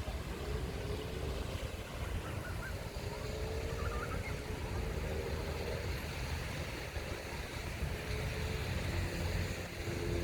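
An engine drones at a distance, its pitch drifting slowly, over a steady low rumble of wind and surf.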